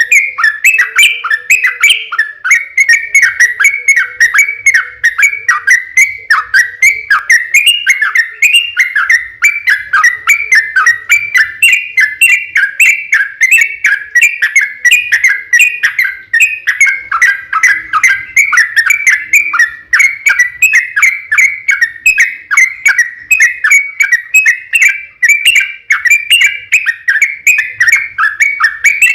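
Yellow-vented bulbul (trucukan) singing a long, unbroken, rapid chattering song, a fast run of bubbly whistled notes with no pause: the 'ropel panjang' song that bird keepers play to get captive bulbuls to answer.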